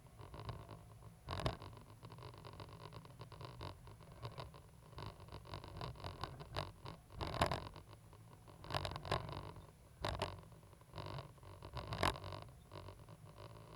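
Caterpillar 320GC excavator at work: its diesel engine running with a steady low rumble, under repeated scraping and grinding passages, with a few sharp clunks standing out, the loudest about halfway through.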